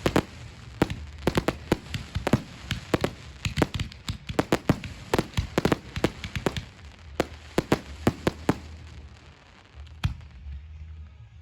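Fireworks going off in quick succession: sharp bangs, several a second, for about eight seconds, then thinning out to a lull broken by one more bang near the end.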